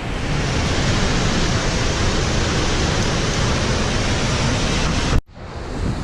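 Steady roar of a large waterfall, Mooney Falls, heard as a dense, even rush of water. It cuts out abruptly about five seconds in and swells back up just before the end.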